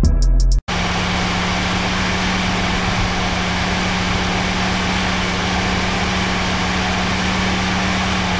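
A brief tail of music, then, after a cut, a Mercedes-Benz W123's carburetted petrol engine running steadily. It has just been restarted after its carburettor was taken off, cleaned and refitted.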